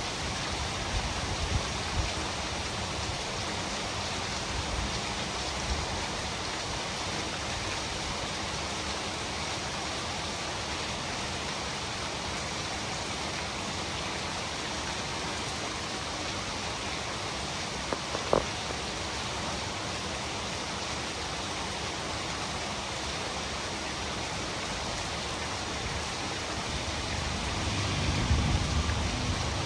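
Steady rain falling. A single sharp tap sounds about two-thirds of the way through, and a low rumble swells briefly near the end.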